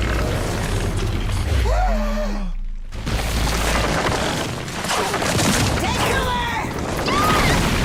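Cartoon action soundtrack: deep rumbling and booming effects with a sudden crash-like burst about three seconds in, short gliding cries over the top and music underneath.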